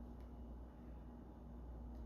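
Faint room tone: a steady low hum, with two faint light ticks, one just after the start and one near the end.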